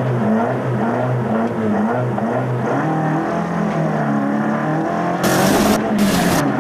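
Mk1 Ford Escort rally car engine heard from inside the cabin, its revs rising and falling again and again as the throttle is worked while the car sits at the stage start. About five seconds in, loud bursts of hiss cover it as the car moves off.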